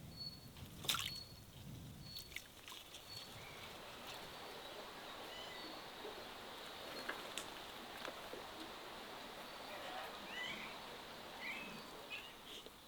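Birds chirping: one repeats a short high note every second or so and others call briefly near the end, over a steady faint hiss, with a sharp knock about a second in.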